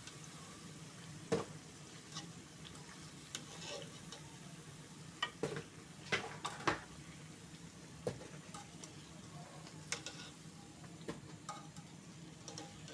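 Mandazi dough frying in hot oil with a steady sizzle, broken by scattered clicks and knocks of a utensil against the pan as the pieces are stirred and turned.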